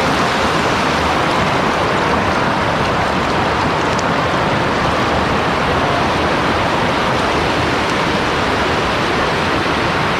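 Water rushing steadily over rocks at a waterfall, a constant, even rush with no breaks.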